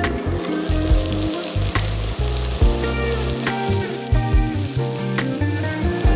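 Sliced leeks sizzling in hot oil in a nonstick frying pan, the sizzle starting suddenly just after the start as they go in, then frying steadily while a silicone spatula stirs them.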